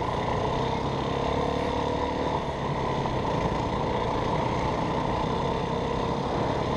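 Yamaha WR450F dirt bike's single-cylinder four-stroke engine running steadily while being ridden, its pitch wandering only slightly.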